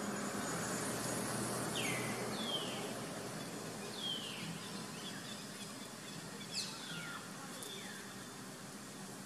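A bird calling about five times with short downward-sliding whistles, the loudest and steepest about two-thirds of the way in, over a steady outdoor hiss.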